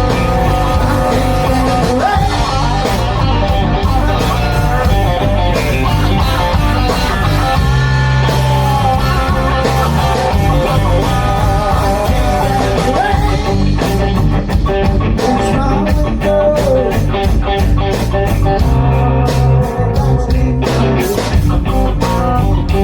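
Blues band playing with guitar to the fore, steady and loud.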